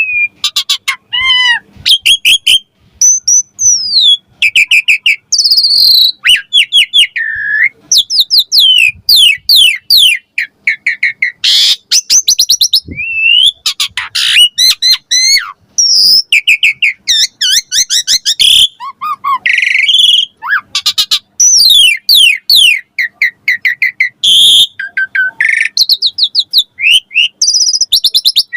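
Asian pied starling (jalak suren) singing vigorously: a long, varied song of clear whistles, rapid runs of chirps, rising and falling glides and harsh scratchy squawks, with hardly a pause.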